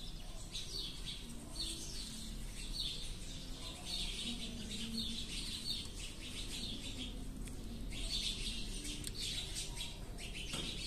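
Birds chirping, on and off.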